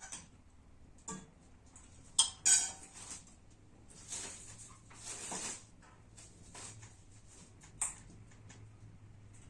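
Kitchen utensils knocking and clinking against dishes and pots, with two sharp ringing clinks a couple of seconds in and a couple of brief scraping sounds after them.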